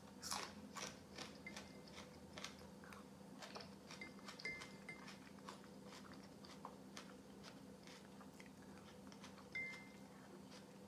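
A crisp crunching bite into a raw green onion stalk right at the start, then close-up chewing with many small crunches and mouth clicks.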